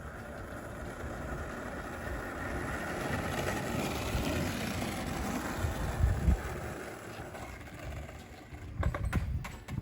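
Skateboard wheels rolling down a paved hill: a steady rolling rumble that builds, then fades, with a few knocks and clatters near the end.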